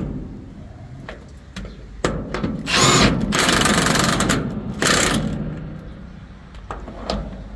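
Handheld power tool run in a few short bursts on metal truck suspension parts, the longest lasting about a second and a half.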